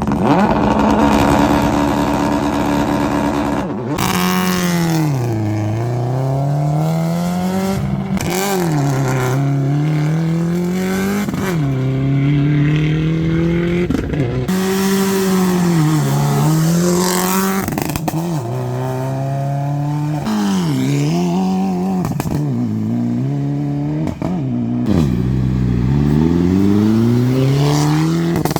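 Rally car engines at full throttle, the pitch climbing and dropping again and again as they rev and change gear or lift off. Several abrupt breaks in the sound, as one car's run cuts to the next.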